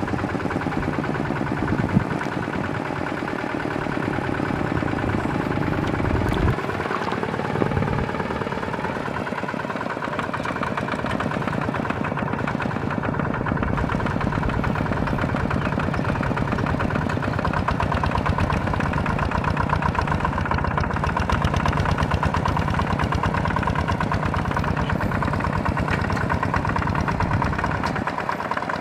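Small tractor engine running steadily with a fast, even pulse, with a couple of sharp knocks about two and six seconds in.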